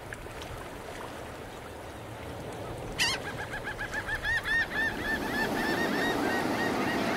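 A bird calling a rapid run of short, arched notes, about five a second, starting about three seconds in and fading away, over the steady wash of surf.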